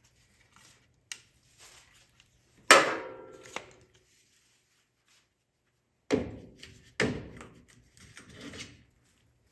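Sharp knocks and clanks of hand work on an engine, as parts and tools are handled and set down: one loud knock with a short metallic ring about a third of the way in, two more knocks past the middle, and smaller clicks and rattles between.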